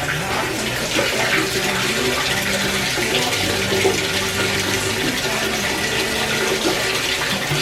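Water pouring and splashing steadily into the tub of an open top-load washing machine as it fills on its hottest cycle.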